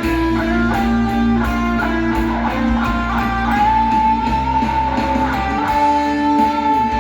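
Instrumental music in D minor: an electric guitar plays a lead melody over a sustained bass line, moving between notes and then holding one long note through the second half.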